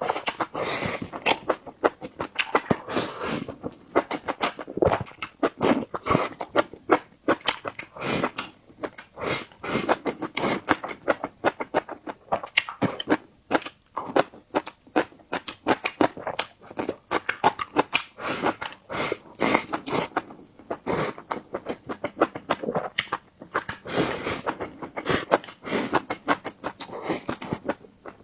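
Close-miked eating: continuous chewing with many quick, irregular mouth clicks and smacks.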